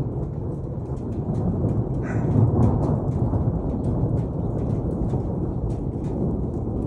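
Thunder rumbling on through rain, swelling louder a couple of seconds in, with scattered raindrop ticks over the low rumble.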